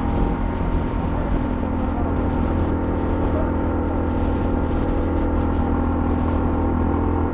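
Honda CL250's single-cylinder engine running steadily at a constant speed under way, with a low rush of road and wind noise.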